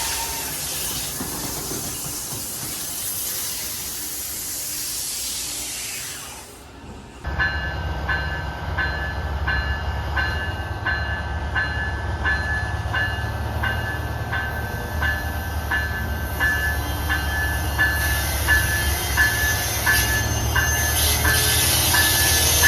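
Train noise: a loud hiss of a passing train fades out, then a diesel train rumbles low with a steady ringing about twice a second.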